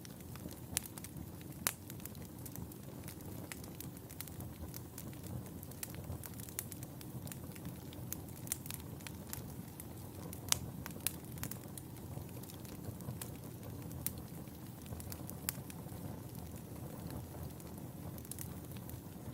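Wood fire in a fireplace crackling, with scattered sharp pops and snaps over a steady low rustle of burning; the loudest pop comes about ten seconds in.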